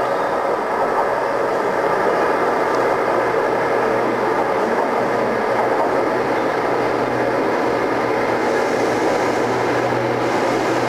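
Train approaching along the platform of an underground station: a steady, loud rumble of wheels on rails with a low hum underneath, growing brighter toward the end as it comes close.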